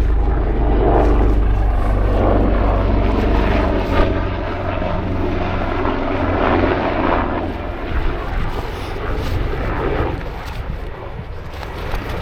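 Mountain rescue helicopter flying over: a steady low drone of rotor and engine that weakens after about seven seconds as it moves away, with gusty wind noise over it.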